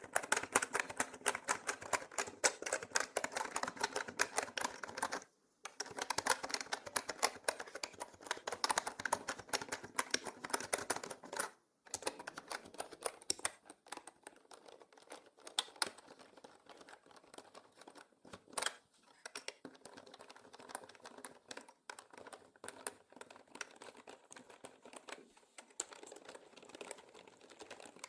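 Mechanical keyboard typing: a fast, dense run of key clicks with two short pauses, about five and twelve seconds in, turning softer and sparser after about thirteen seconds, with one louder key strike near the middle.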